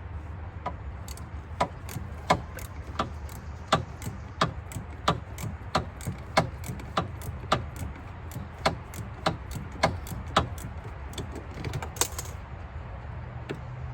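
Hand tool working at a car's side marker light: a steady series of sharp clicks, about one every half second to 0.7 s, as the part is worked loose by hand.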